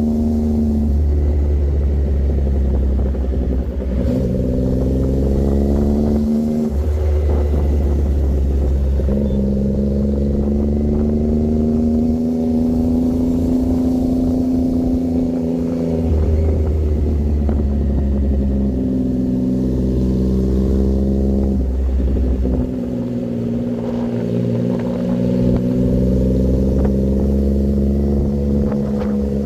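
Triumph Daytona 660's three-cylinder engine pulling under way. The revs climb steadily and fall sharply several times as it changes gear.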